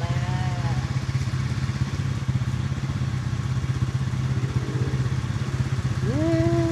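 Quad bike engine running steadily. Short pitched calls sound over it near the start and faintly later, with a louder one that rises and then holds near the end.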